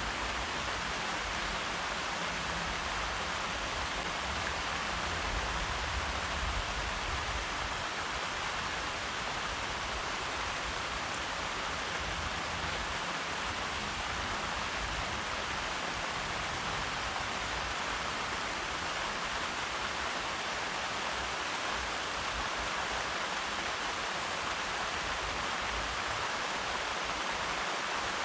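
Steady rain falling, an even, unbroken wash of sound with no single drops or thunder standing out.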